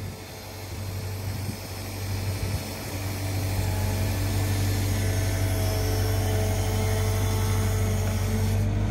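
Diesel engine of a Caterpillar 315F LCR hydraulic excavator running with a steady low hum. It grows louder about three seconds in, then holds steady.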